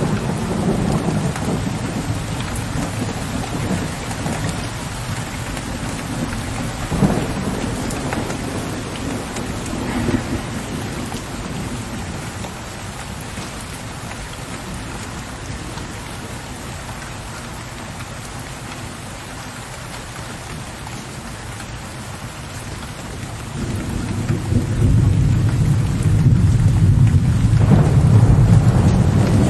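Steady rain falling, with low rolling thunder. There are two short sharp cracks about seven and ten seconds in, and a long, louder rumble of thunder swells up near the end.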